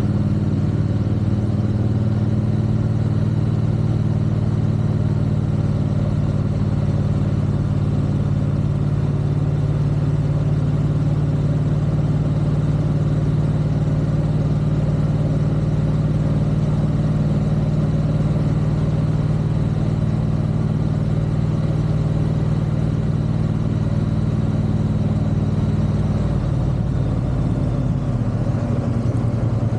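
Triumph parallel-twin motorcycle engine running at a steady speed, its note dropping near the end as the bike eases off.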